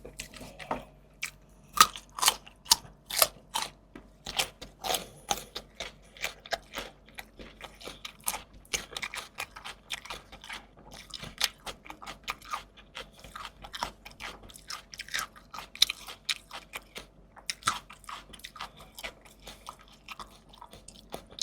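A person chewing crunchy food close to the microphone: a steady run of crisp crunches, about two to three a second.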